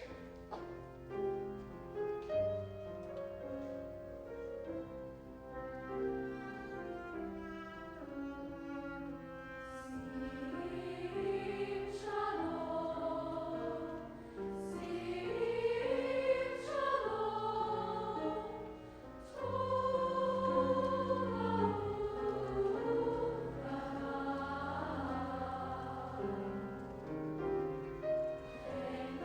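A high school choir singing a sustained, slow-moving choral piece in parts, soft at first and growing fuller about a third of the way in, with a brief dip before swelling again.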